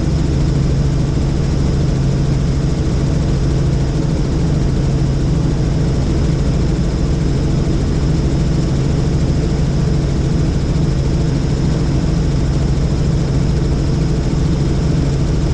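Helicopter in flight: the engine and rotor make a steady, loud drone with a strong low hum that does not change.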